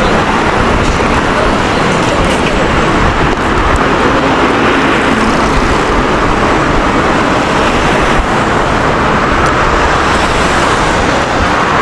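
Steady city street traffic noise, with vehicles passing continuously.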